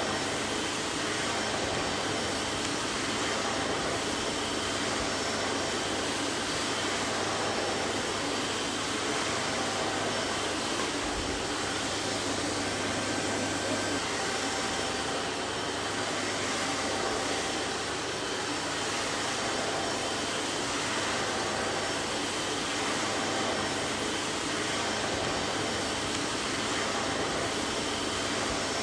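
Vacuum cleaner running steadily, a constant whooshing motor hum with a few faint steady tones in it.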